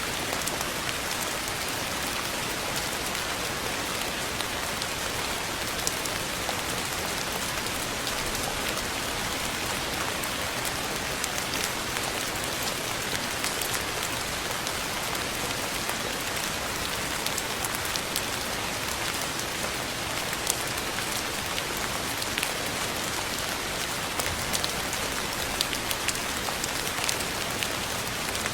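Steady rainfall, an even hiss with individual drops ticking on a surface here and there.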